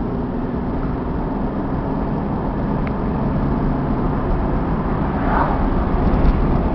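Engine and road noise inside the cabin of a 1996 Chevrolet Camaro RS under way, its 3.8-litre V6 pulling steadily as the car gathers speed through the gears, growing slightly louder toward the end.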